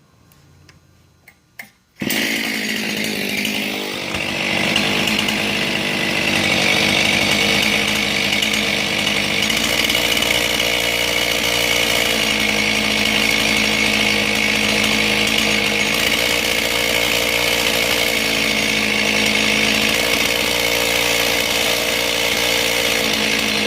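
John Deere 625 two-stroke chainsaw starting about two seconds in and running with its fuel-pump impulse hose unhooked from the cylinder, which mimics an air (vacuum) leak: the idle speed picks up and the chain starts turning.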